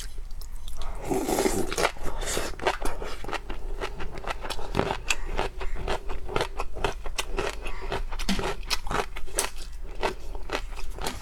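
Seafood being eaten close to the microphone: rapid, irregular crunching, cracking and chewing, with a short scraping noise about a second in.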